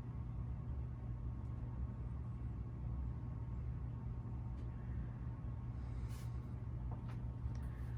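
42-inch Alaska ceiling fan running, its motor giving a steady low hum, with a few faint clicks near the end.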